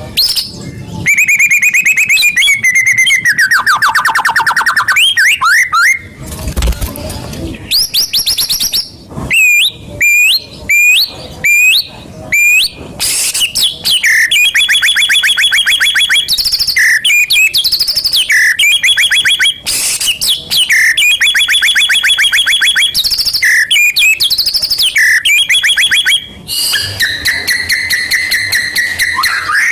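White-rumped shama (murai batu) song, loud and varied: long rapid trills, a run of short rising whistles, and a short harsh buzz about six seconds in. It is a lure recording meant to provoke a shama into singing.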